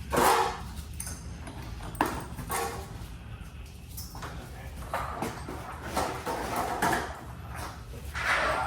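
Irregular metallic knocks, clicks and clatter of hand tools on garage door hardware, with a sharp knock just after the start and a few more spread through.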